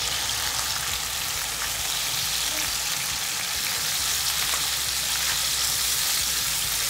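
Diced bacon and sliced garlic frying in hot olive oil in a frying pan, a steady sizzling hiss while they are stirred with chopsticks.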